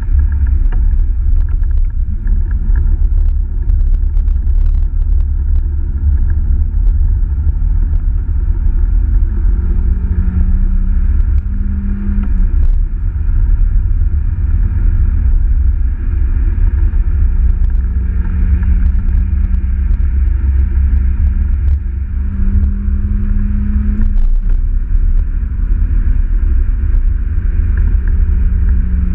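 Mazda MX-5 NA's 1.6-litre four-cylinder engine pulling on track, heard from inside the cabin over a heavy low rumble. The engine note climbs and then drops suddenly twice, about twelve and twenty-four seconds in.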